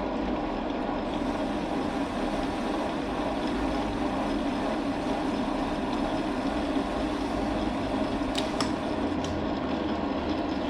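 Metal lathe running steadily while taking the final finishing cut on a head bolt hole insert, turning it to size for a press fit. A few light ticks come near the end.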